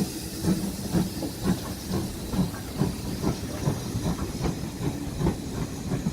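Ivatt Class 2MT steam locomotive hissing steam, with a regular beat about twice a second as it works slowly.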